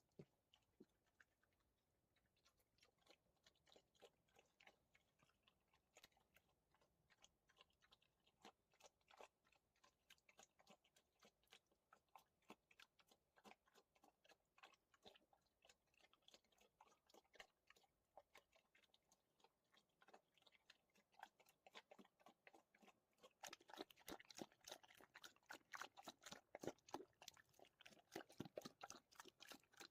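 Faint, close chewing and crunching of food, a fast irregular run of crunches that grows louder a little over three quarters of the way in.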